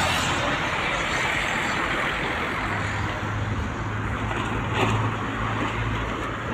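Steady vehicle and road-traffic noise, with a low engine hum coming in partway through and a single short click.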